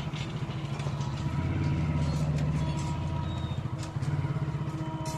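An engine running steadily with an even low pulse, with scattered light clicks and taps over it.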